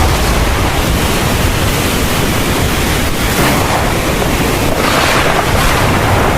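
Heavy rain pouring steadily in a thunderstorm, a dense even hiss with a low rumble underneath, swelling slightly a few times.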